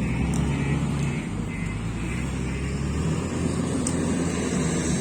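Heavy diesel engine running steadily at a coal loading site.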